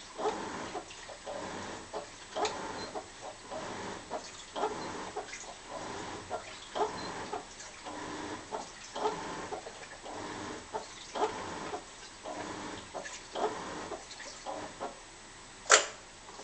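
Washing machine running a wash cycle, giving short squeaky, moan-like noises about twice a second as the drum agitates. A single sharp click comes near the end.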